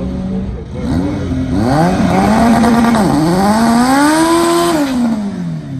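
A race car's engine revving hard: the pitch climbs with a couple of quick dips, holds high, then falls away near the end, over a loud steady hiss.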